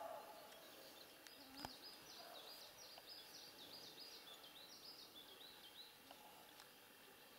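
Faint bird song: a quick series of repeated high notes rising and falling, starting about a second in and running for several seconds, over quiet open-air background. A single sharp click sounds about a second and a half in.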